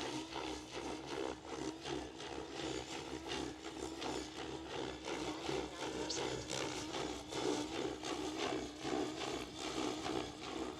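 SAB Goblin Kraken 700 electric RC helicopter in flight, its rotor hum wavering quickly up and down as the blades load and unload, as when thrown back and forth through tic-tocs.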